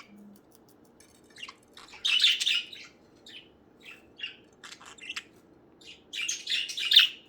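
Budgies chirping in short scattered calls, with two louder runs of dense chattering, one about two seconds in and one near the end.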